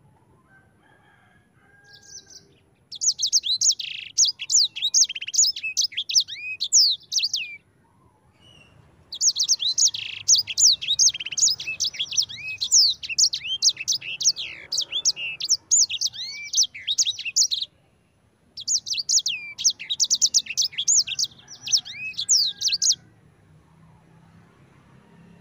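Sanger (black-throated canary) singing a fast rolling song of rapid high chirps and down-slurred notes, in three long bouts separated by short pauses.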